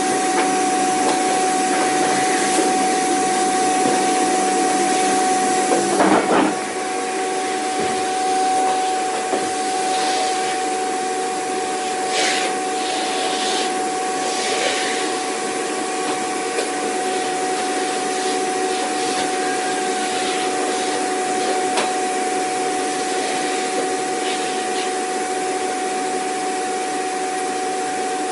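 Vacuum cleaner motor running steadily, a constant whine over a rushing hiss of air. About six seconds in there is a brief knock, and the sound then drops slightly and turns a little duller.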